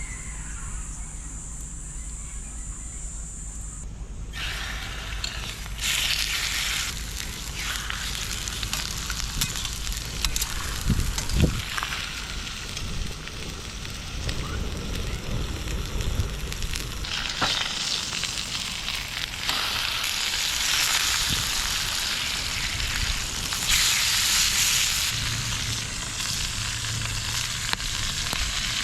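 Food frying in a hot pan, a steady sizzle that starts about four seconds in, with a few sharp clicks.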